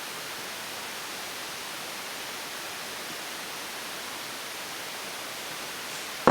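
Steady, even background hiss with no pitch or rhythm, and one sharp click right at the end.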